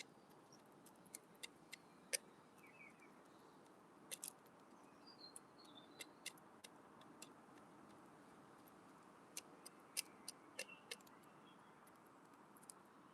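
A wood pigeon's beak pecking seed at a window bird feeder: sharp, irregular clicks and taps, some in quick pairs, over a faint hiss, with a few faint chirps from other birds.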